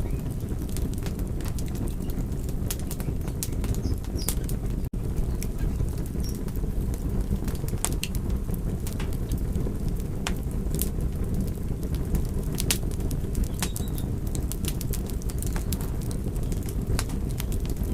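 Wood fire crackling: a steady low rumble of flames with sharp pops and snaps at irregular moments. The sound cuts out for an instant about five seconds in.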